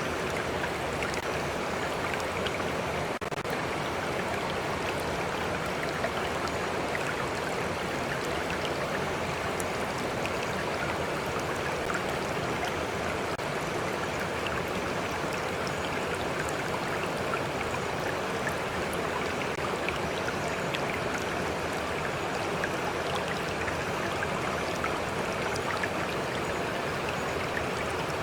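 A stream flowing steadily, a constant even rush of water with scattered small splashes and drips through it.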